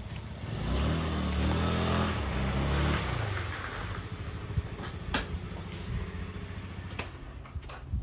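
A motor vehicle's engine passing close by, swelling to its loudest about two seconds in and then fading, followed later by a few sharp clicks.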